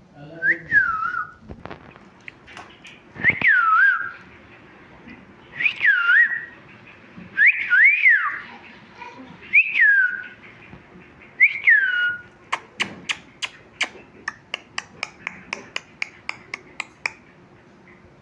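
A pet parrot whistling the same short rising-and-falling phrase six times, about two seconds apart, then a quick run of sharp clicks, about five a second, for several seconds.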